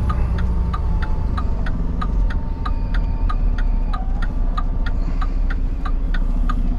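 Semi-truck cab interior: steady low engine and road rumble with a turn-signal flasher ticking evenly, about three clicks a second.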